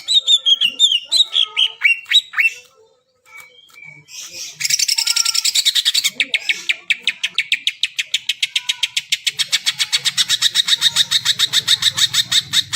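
Cucak ijo (green leafbird) in full song: a quick run of falling whistled notes, a short pause, then a long rapid trill of evenly repeated notes, about eight a second, held to the end.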